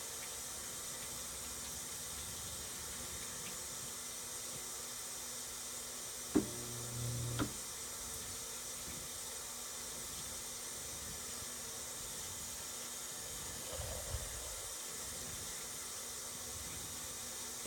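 Older Whirlpool washing machine filling with water: a steady hiss of water running in. About six seconds in, a short low hum starts and stops with a click.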